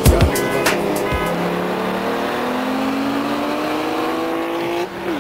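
Sports car engine accelerating hard at full throttle, its pitch climbing steadily for several seconds, then dropping with an upshift near the end and starting to climb again.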